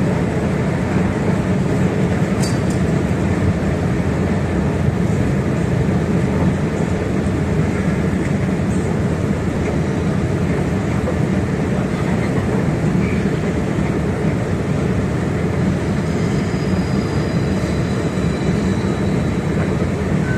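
Passenger train running: a steady, unbroken rumble of wheels and rails. A faint high whine joins in near the end.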